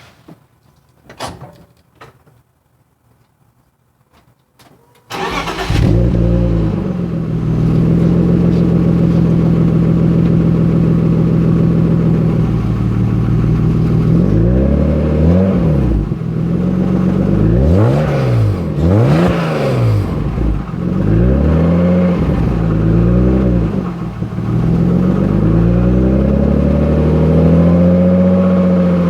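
BMW E36 M3's straight-six on its stock exhaust, cold-started: a few faint clicks, then about five seconds in the engine fires abruptly and settles into a steady fast cold idle. From about halfway it is revved several times, its pitch rising and falling, including a quick double blip, before holding a raised idle near the end.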